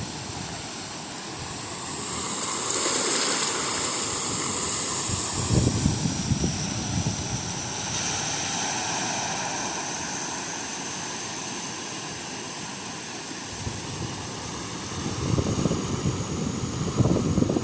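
Gentle sea waves washing onto a beach, a steady hiss that swells and ebbs. Wind gusts buffet the microphone about five seconds in and again near the end.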